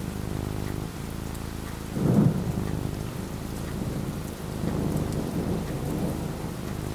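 Steady rain falling with a roll of thunder that breaks loudest about two seconds in and keeps rumbling low afterwards.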